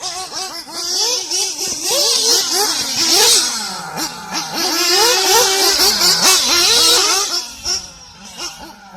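Glow-fuel nitro engine of a 1/8 scale RC buggy revving up and down repeatedly as the buggy accelerates and backs off. It goes softer near the end.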